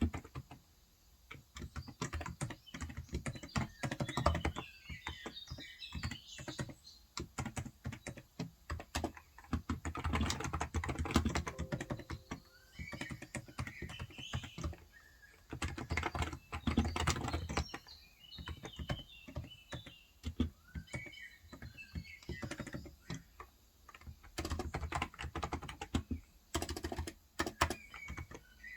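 Typing on a Cox Endeavor electro-capacitive (Topre-style) tenkeyless keyboard with 35 g switches: runs of keystrokes in bursts with short pauses. Birds chirp faintly in the background at several points.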